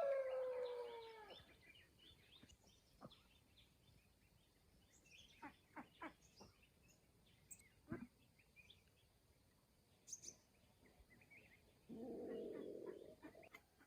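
A rooster's crow trailing off with a long falling note at the start, then a quiet farmyard with faint scattered bird chirps and clicks. A short rustle comes near the end.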